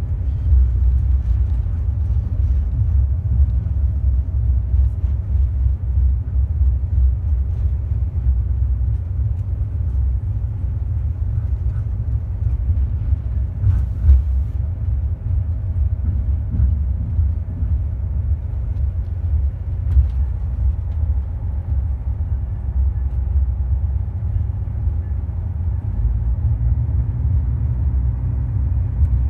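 Budd RDC self-propelled diesel railcar in motion: a steady low rumble from the wheels and the underfloor diesel engines. Two short, sharp knocks stand out, one a little before halfway and one about two-thirds through.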